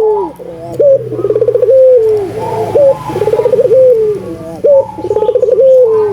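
Barbary dove (burung puter) cooing in about three repeated phrases, one every two seconds or so. Each phrase starts with a sharp rising note, rolls into a fast trill and ends in a long, drawn-out falling coo.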